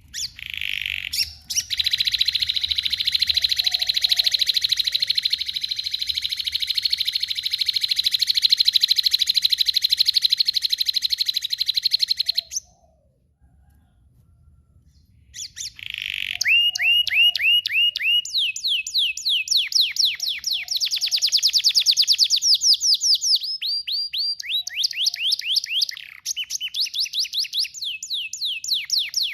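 Domestic canary singing: a very fast, high trill held for about ten seconds, then a pause of a few seconds, then a run of phrases of quickly repeated, downward-sliding notes, each phrase at a different pitch.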